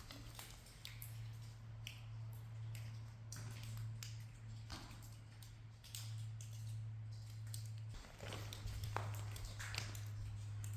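Faint, irregular footsteps crunching on the tunnel floor, over a steady low hum.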